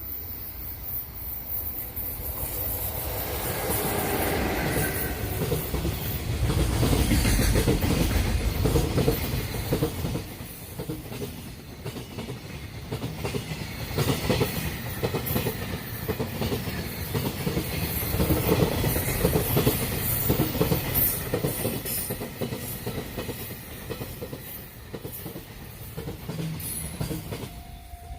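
Long freight train passing: the locomotive comes by in the first several seconds with a falling pitch, then the wagons roll past with a steady clickety-clack of wheels over the rail joints, swelling and easing until the end.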